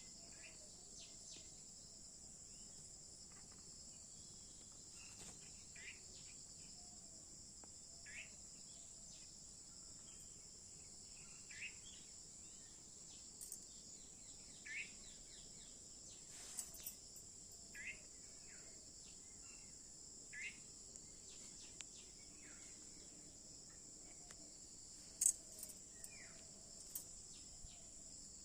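Steady high-pitched drone of crickets or other insects, with short bird chirps every couple of seconds. A single sharp click near the end is the loudest sound.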